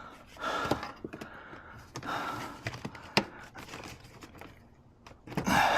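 Plastic car interior trim being handled and pried, with small clicks and one sharp click a little after three seconds in, among soft breaths.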